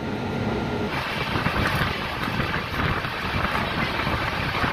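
Steady noise of a train in motion, with wind buffeting the microphone; it grows louder about a second in.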